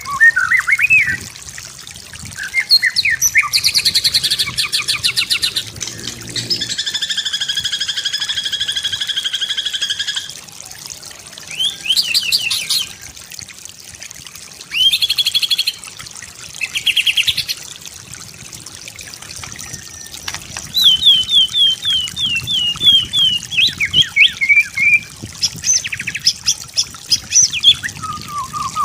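White-rumped shama (murai batu) singing a varied song of quick chattering phrases. A long, even trill comes about seven seconds in, and a run of quick falling notes comes later on.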